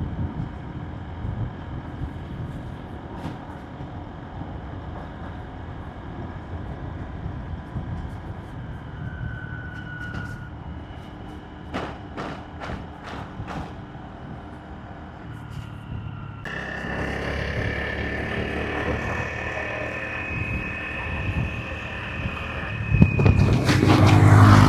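Motorbike running steadily along a road, with engine hum, tyre and wind noise and passing traffic. The noise grows about two-thirds of the way through and is loudest near the end, as a vehicle passes close.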